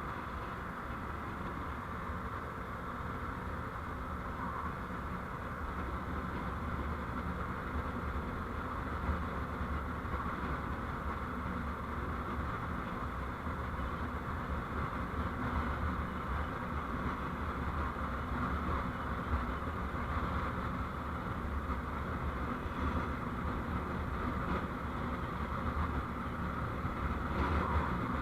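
Steady road and engine noise of a vehicle on the move, picked up by a dashcam microphone, with a low rumble under a hissing haze, growing slightly louder over the stretch.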